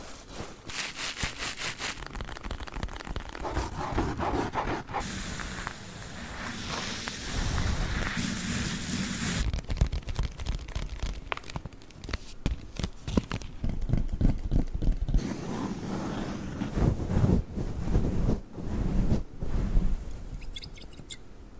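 Close-miked ASMR trigger sounds in quick succession: scraping, rustling and tapping on handled objects, switching to a new sound every few seconds. There is a long hissy rustle in the middle, then a run of sharp clicks and taps.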